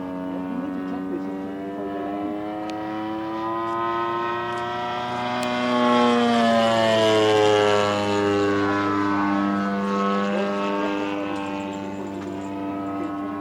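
Zenoah GT80 twin-cylinder gas engine of a large radio-controlled Focke-Wulf FW-190 model in flight, making a pass. The engine note swells to its loudest about six to eight seconds in, then drops in pitch and fades as the plane goes by.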